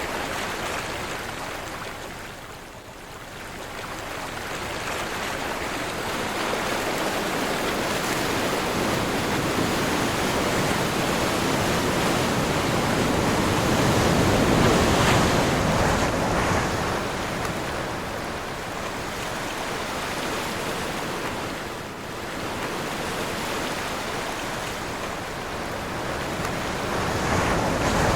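Sea surf on a windy day, waves rolling in and breaking with wind blowing. The surf eases early on, swells to its loudest about halfway through, falls back, and builds again near the end.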